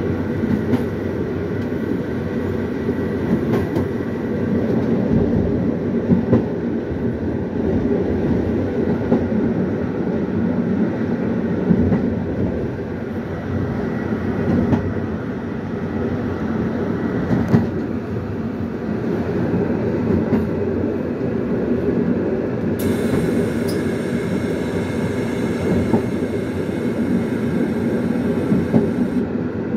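Intercity passenger train running, heard from inside its rear car: a steady rumble of wheels on the track, with occasional clicks over rail joints. A higher hiss joins for about six seconds near the end.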